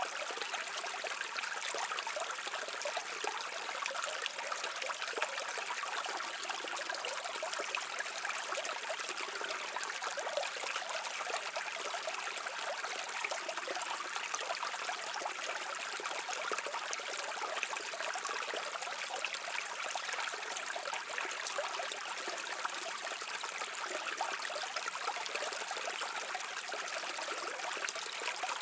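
A stream of water running steadily over rocks, a continuous even rush with small splashes and trickles.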